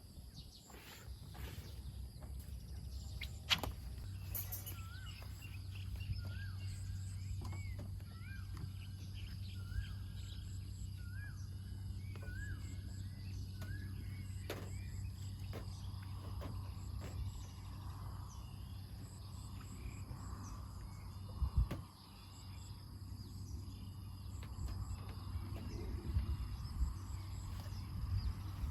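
Birds calling, one repeating a short rising call about once a second, over a steady high insect drone, with a low hum and two sharp knocks, one early on and one about two thirds of the way through.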